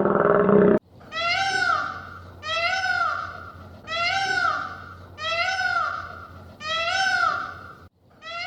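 An animal calling over and over, one rising-and-falling call about every 1.2 seconds, after a louder, lower-pitched call that cuts off abruptly under a second in.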